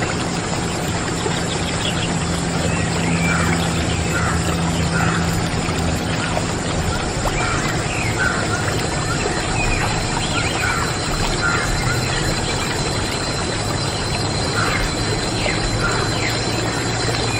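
A steady low hum with short, high chirps or squeaks scattered irregularly through it.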